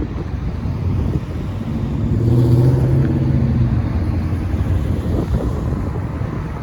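Freight train rumbling past with heavy wind buffeting on the microphone; about two seconds in, a deep droning hum swells for a second and a half, as of a diesel locomotive's engine going by, then fades back into the rumble.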